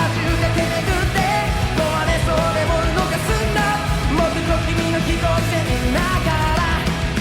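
Live pop-rock band music, loud and steady, with drums and bass under a bending melody line.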